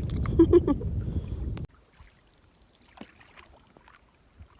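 Canoe paddling on a lake: a loud low rumble of wind on the microphone with a few knocks cuts off suddenly a little over a second and a half in. After that only faint scattered drips and light knocks of the paddle remain.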